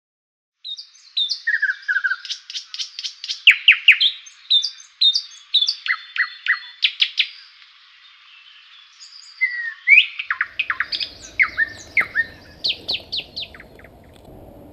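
Songbird singing: quick runs of high chirps and sharp down-slurred notes, in two long phrases with a short pause between them. A low background rush comes in about ten seconds in.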